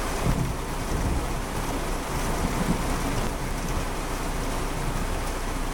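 Heavy rain drumming on a car's roof and windows, a dense, steady hiss heard from inside the car.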